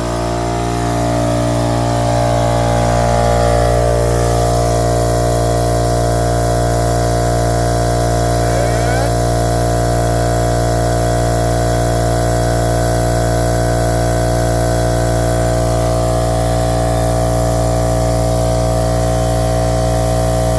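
Ridgid twin-tank job-site air compressor running steadily, its motor and pump filling the tanks; with the chewed-up head gasket replaced it no longer leaks air and runs a lot quieter. The pitch settles over the first few seconds, then holds steady.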